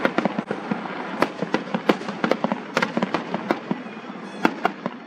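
Fireworks going off: a quick, irregular string of sharp pops and crackles, thinning out near the end.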